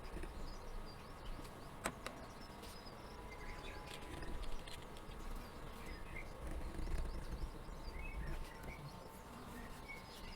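Scratchy strokes of a calligraphy nib pen on paper, with a sharp click about two seconds in, while small birds chirp and twitter in the background.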